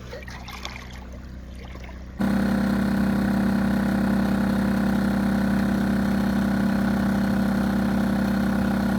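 Faint water and wind noise, then a sudden cut about two seconds in to a boat engine running steadily at idle with a strong, even low hum.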